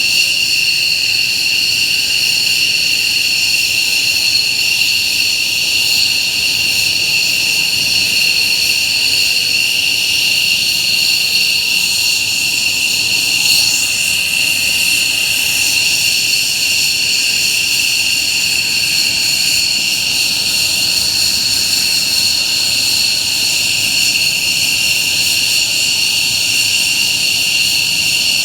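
F-15J's twin Pratt & Whitney F100 turbofan engines running steadily on the ground, a loud, even jet whine with several high-pitched tones over a rushing roar.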